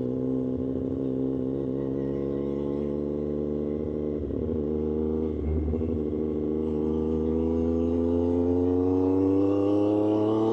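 Triumph Street Triple 765 RS inline-triple engine running through an aftermarket SC-Project exhaust, with a tune to suit, under way. It holds a steady note, goes unsettled for a moment about four to five seconds in, then rises steadily in pitch as the bike accelerates.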